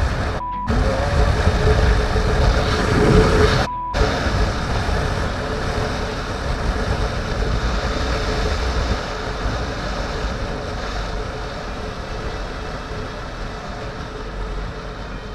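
Motorcycle engine and wind noise from a rider's helmet-camera microphone, with two short censor beeps dubbed over muted words, about half a second in and again about four seconds in.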